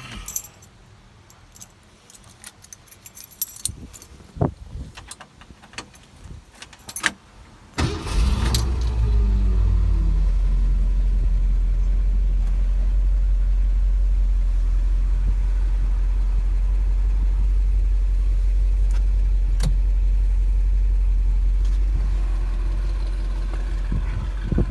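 Keys jingle and click, then about eight seconds in a car engine, freshly installed, is started: it catches almost at once and settles into a steady idle.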